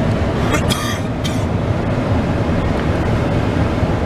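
Road noise of a moving vehicle: a steady low rumble of engine and tyres, with a couple of brief hisses about a second in.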